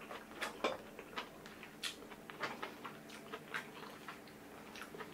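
Close-miked chewing: soft, irregular wet mouth clicks and smacks of someone eating a mouthful of food, thinning out after about three and a half seconds.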